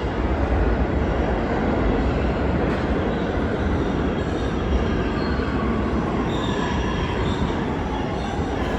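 New York City subway train running through an underground station: a steady, loud rumble of wheels on rails, with a faint high wheel squeal coming in during the second half.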